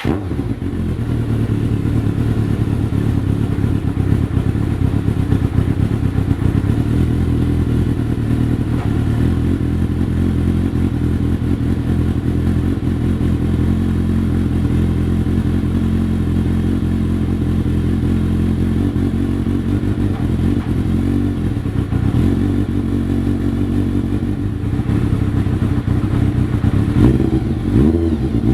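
Kawasaki ZR-7's air-cooled inline-four idling steadily through a VEGA SPORTS aftermarket exhaust. Near the end the throttle is blipped, the pitch rising and falling.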